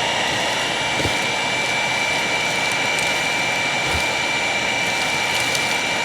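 Hoover WindTunnel upright vacuum cleaner running steadily with a constant high whine, with a few faint ticks of debris being sucked up.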